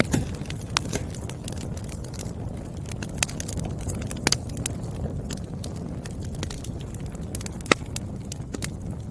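Burning firewood crackling: a steady low rumble of flames with frequent, irregular sharp pops, the loudest a little before the end.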